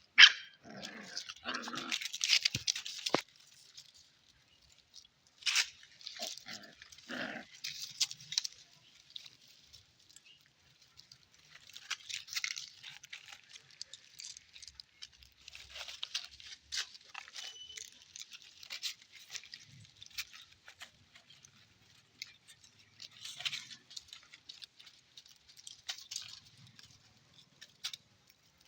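Puppies whining and yelping in short bursts, mostly in the first eight seconds, with scratching and rustling around them.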